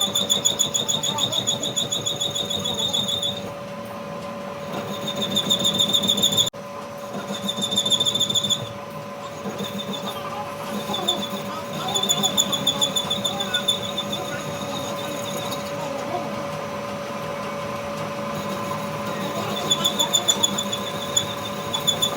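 Workshop machinery: a steady machine hum with a high-pitched, rapidly pulsing squeal over it that comes and goes in stretches of a second to a few seconds.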